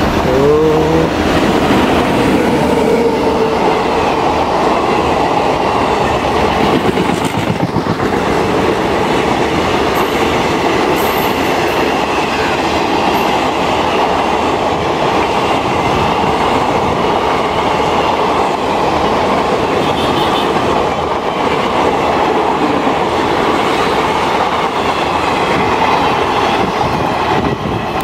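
Electric-hauled passenger train passing close by at speed: a loud, steady sound of wheels on rail with the clickety-clack of the coaches going over the rail joints.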